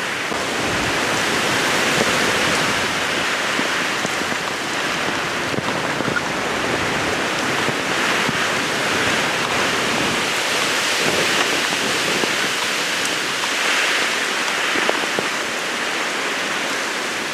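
Heavy typhoon rain and wind (Typhoon Nanmadol, No. 14, near its closest approach): a dense, steady rushing that swells and eases every few seconds.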